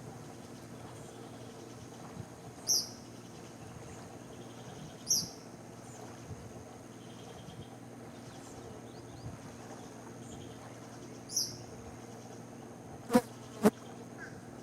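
Steady high-pitched drone of insects, with three short high chirps about two to six seconds apart. Near the end come two sharp clicks half a second apart, the loudest sounds here.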